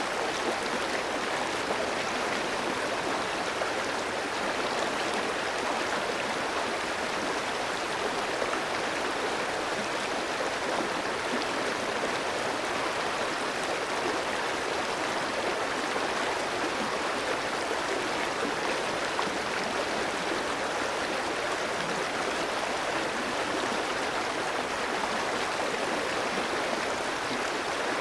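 A clear stream flowing over rocks, a steady rushing and burbling of water with no pauses.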